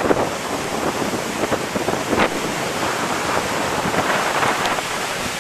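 Tropical-storm wind buffeting the microphone over heavy surf and falling rain, a steady rushing noise with many short gusty thumps.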